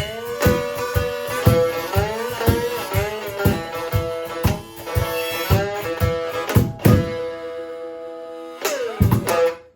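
A one-string slide instrument playing a blues line of sliding notes, with a cajon beating about twice a second. About seven seconds in a strong hit lands and a note rings on. A last sliding lick with a few cajon hits closes the song, and it cuts off sharply.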